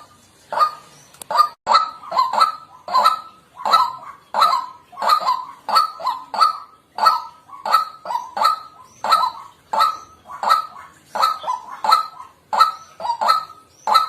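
White-breasted waterhen calling: a long run of short, harsh 'kwak' notes, about two a second, some of them in quick pairs.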